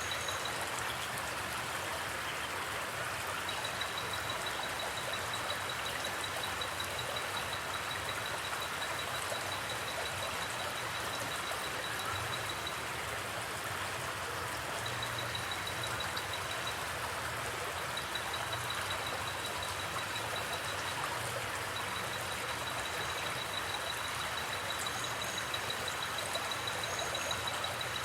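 Steady rush of flowing water from a forest creek or river. A high, fast-pulsing trill comes and goes over it.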